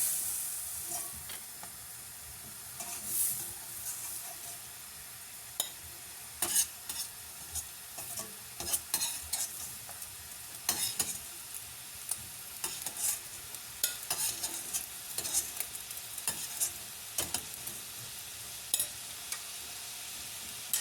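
Oil sizzling in a frying pan with small shrimp, while a utensil scrapes and taps against the pan in frequent irregular clicks as the shrimp are stirred and lifted out.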